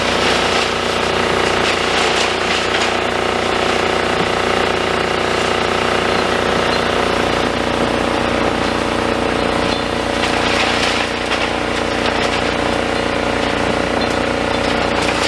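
Demolition excavator's diesel engine and hydraulics running steadily under load, with occasional crunching as it crushes and compacts rebar and concrete.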